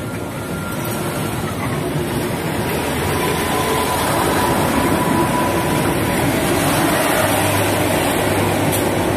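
KRDI diesel multiple unit passing slowly at close range, engine and wheels on the rails, growing steadily louder as the cars go by.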